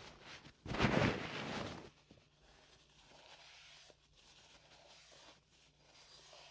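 Oiled hands sliding and rubbing in massage strokes close to the microphone, loud for about the first two seconds, then soft, faint rubbing with a few small slick clicks.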